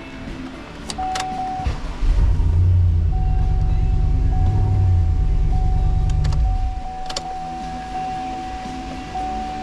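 Hummer H2 6.0L V8 running, with a loud low rumble for about five seconds as the engine is revved, then settling back to idle. A few sharp clicks are heard, and an electronic tone sounds on and off.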